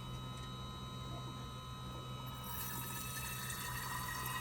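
Fuel injector flow bench running a static flow test: Injector Dynamics ID2600-XDS injectors held wide open, spraying test fluid steadily into measuring cylinders over the hum of the bench's pump. A hiss grows about halfway through.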